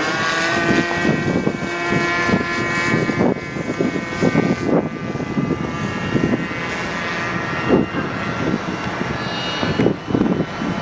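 OS .46 two-stroke glow engine of an RC model airplane running, its note rising slightly at first and growing fainter after about three seconds, with irregular low rumbles in the background.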